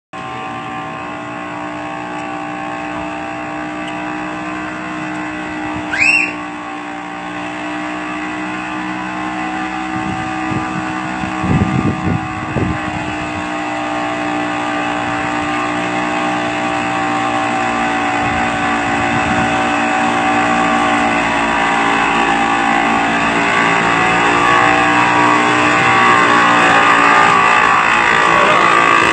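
Small aircraft engine running steadily, slowly growing louder. A brief rising squeal about six seconds in and a few low thumps around twelve seconds.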